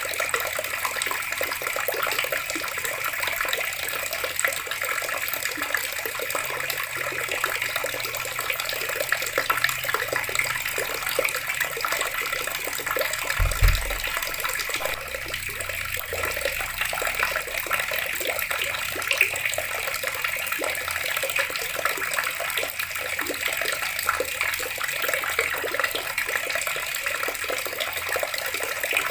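Water running steadily from a tap, an even splashing rush. About halfway through there is one brief low thump.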